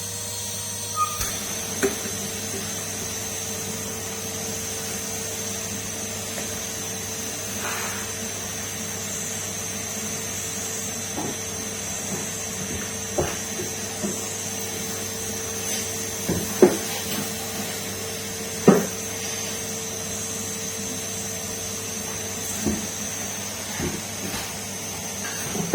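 Numatic Henry canister vacuum cleaner running steadily with a high whine, with a scattered handful of short knocks and clicks.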